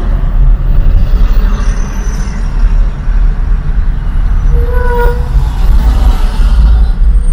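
Steady, loud low rumble of a moving road vehicle, with one short horn toot about five seconds in.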